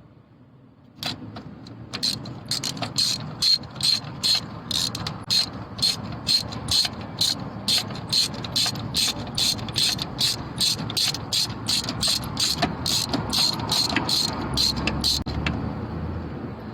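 Socket ratchet wrench clicking in quick, even strokes, about three clicks a second, as a new spark plug is run in. The clicking starts about a second in and thins out near the end.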